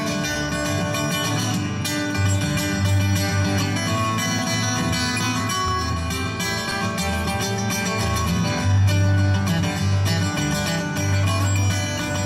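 Acoustic country-bluegrass band playing an instrumental break led by guitar, with no singing.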